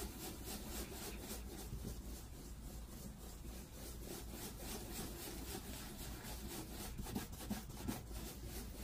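Oxidation-remover pad from a ceramic headlight restoration kit rubbing over a plastic headlight lens in quick, even circular strokes, wiping off the yellowed oxidation.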